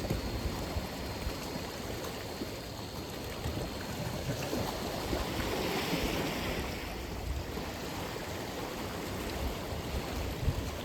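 Atlantic Ocean waves breaking and washing on the shore in a steady rush, with one wave swelling louder about halfway through.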